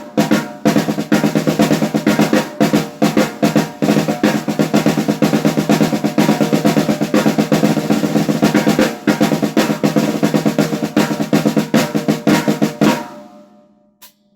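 Aluminium 14x6.5-inch snare drum played in fast, dense rolls and strokes. About a second before the end the playing stops and the last hit rings out and dies away.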